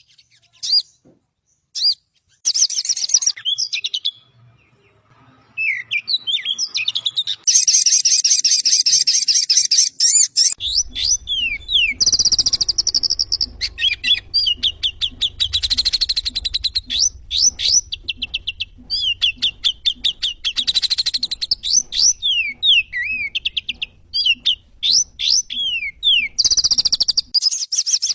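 Sogon (sogok ontong) bird song used as a masteran training track: rapid high chirping trills mixed with quick downward-slurred whistle notes, in phrases broken by short pauses. A low hum runs under the middle part.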